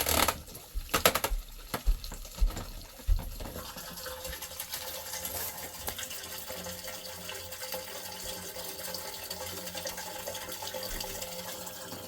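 A few knocks and clatters in the first three seconds, then water running steadily down the newly repaired kitchen drain line under the basement floor, flowing to test whether the drain carries it away or backs up.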